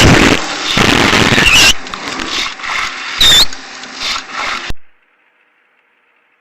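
Loud road and wind noise of a car on a dashcam, with two brief high squeals, the second louder. It cuts off abruptly about three-quarters of the way through, leaving only a faint hiss.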